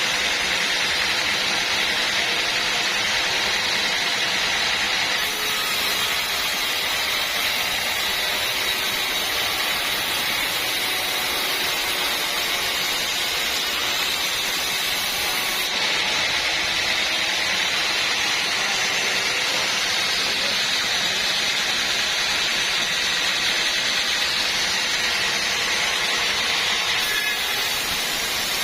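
Sawmill saw and machinery running steadily: a continuous high-pitched whining noise that holds the same level throughout.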